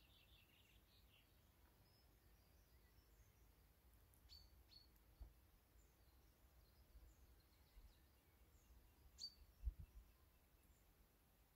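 Near silence with faint, scattered bird chirps: a short run of high notes at the start, then a few single sharp chirps later on. Two brief low thumps, the second louder, near the end.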